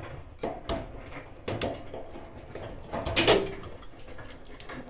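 A hand tool clicking and knocking on the metal roller shaft of a front-load dryer as the back tri-ring retaining clip is cut off, with one louder sharp click about three seconds in.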